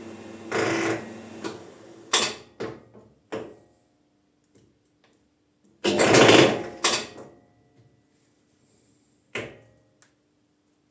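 Workshop handling noises at a lathe: several sharp knocks and a longer, louder scraping clatter about six seconds in, over a faint steady hum.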